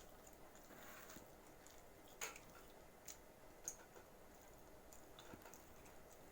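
Faint chewing of pizza, with a few short soft clicks from the mouth and food.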